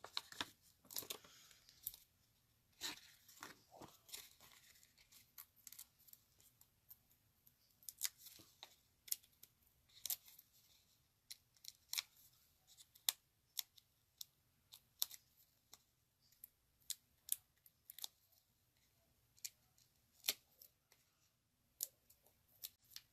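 Faint, irregular crisp clicks and snips of paper and card stock being handled, cut and pressed into place by hand, about one or two a second.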